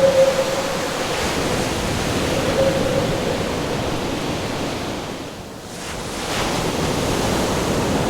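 Ocean surf and wind: a steady wash of crashing waves with a faint whistling howl of wind, easing off briefly about five seconds in before swelling back.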